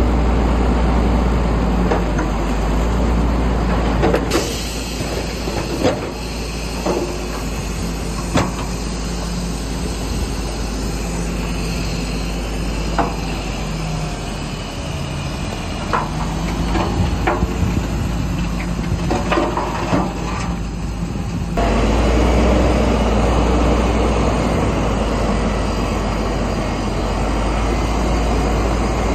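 Heavy diesel earthmoving machinery running with a steady low rumble, with scattered sharp clanks and knocks of metal and stone. The sound changes abruptly about four seconds in and again about twenty-two seconds in.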